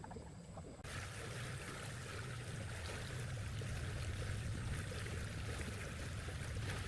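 Running water, a steady rushing hiss like a stream, that starts abruptly about a second in over a low rumble.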